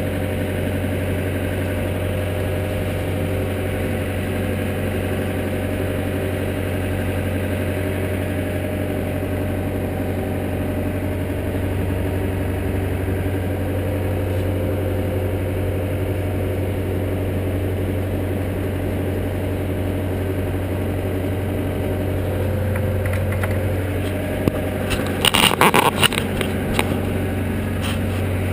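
An engine idling steadily with a constant low hum. A short burst of sharp knocks or rattles comes near the end.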